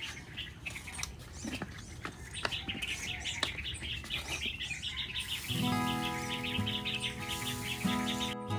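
Small birds chirping in quick, continuous runs. About halfway through, background music with sustained notes comes in over them.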